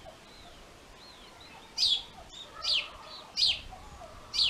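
A small bird calling outdoors. It gives four sharp chirps, each sweeping down in pitch, starting about two seconds in and coming a little under a second apart, with a few faint softer notes before them.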